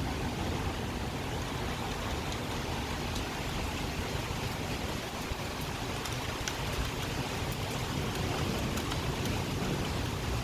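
Steady thunderstorm rain falling, with scattered individual drops ticking close by.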